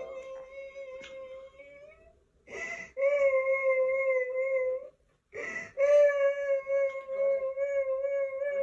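A dog howling: long, steady held howls, each ending and the next beginning with a short sharp intake of breath, the last howl the longest.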